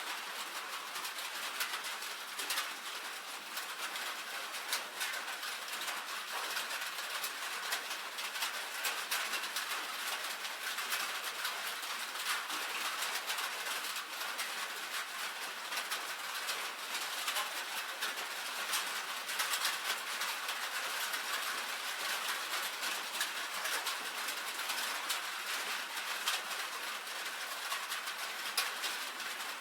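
Rain falling on a tin roof: a steady, hissing patter with frequent sharp ticks from individual drops striking the metal.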